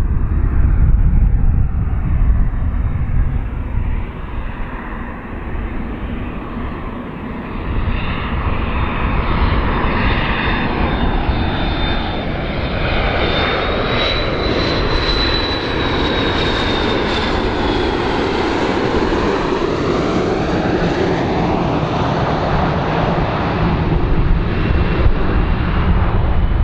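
Large airplane's engines running loud and steady as it passes by, with a high engine whine that rises and then falls away near the middle, over a deep continuous rumble.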